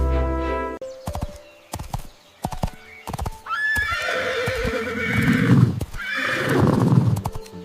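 A horse's hooves clip-clopping in scattered knocks, then a horse whinnying twice in two long, wavering calls, the second starting about six seconds in. Brass music fades out in the first second.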